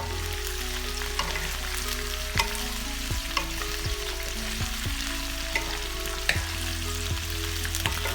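Sliced onions and green chilies sizzling in hot oil in a kadai, stirred with a spatula that knocks and scrapes against the pan at irregular intervals.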